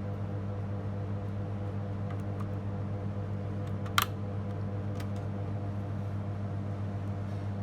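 Steady low electrical hum, with one sharp click about four seconds in and a few faint ticks.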